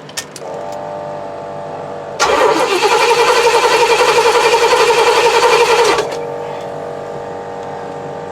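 Oldsmobile 455 V8 being cranked on its starter for about four seconds without firing, pulsing evenly as the cylinders come up on compression. This is the cranking for a compression gauge reading on cylinder number four. A steady hum runs underneath and carries on after the cranking stops.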